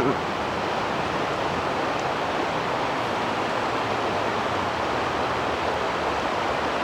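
Steady rush of fast-flowing mountain river water, an even hiss and rumble.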